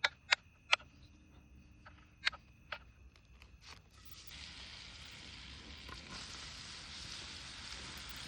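A few sharp knocks, five in the first three seconds, then food starting to sizzle on heat about four seconds in, a steady hiss that continues.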